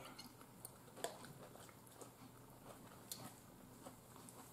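Near silence with faint mouth sounds of a person chewing food, and a few soft clicks, the clearest about one second and about three seconds in.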